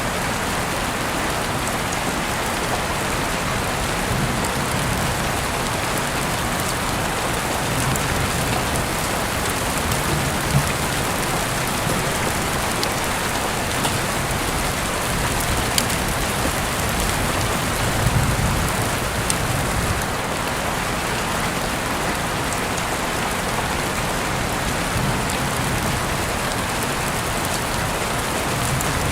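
Heavy rain falling steadily, a dense even hiss with scattered sharper drop ticks, heard through an open window.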